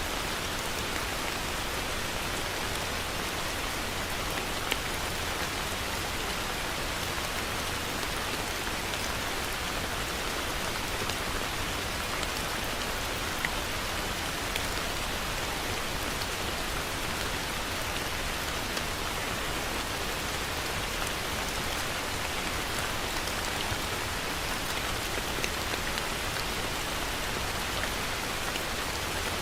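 Heavy rain falling steadily, a dense even hiss with scattered sharper drops striking a surface.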